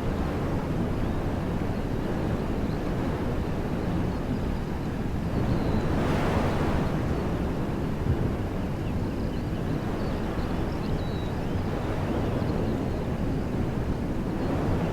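Wind blowing through woodland trees: a steady rushing that swells into a stronger gust about six seconds in. Faint bird chirps come now and then.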